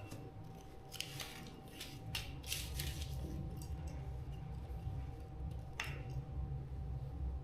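A few short, sharp snipping and scraping sounds of handwork on a small device, about four in all, over a steady low hum and a faint steady whine.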